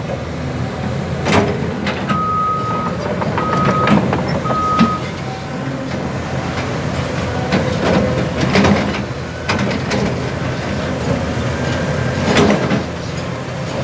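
Heavy diesel dump truck running, with a reversing alarm giving three short beeps about two seconds in, and scattered metallic clanks and knocks.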